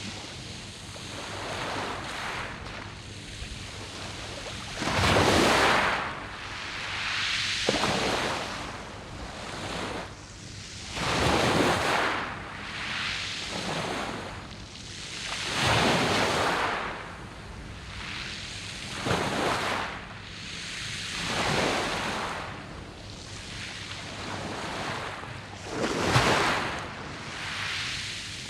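Waves breaking and washing up a round-pebble (mongdol) beach. Each swell surges in loudly and draws back, one every three to five seconds.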